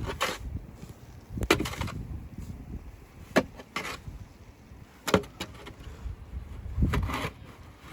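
Snow shovel scraping and knocking on heavy snow: a sharp scrape or knock every second or two, about seven in all.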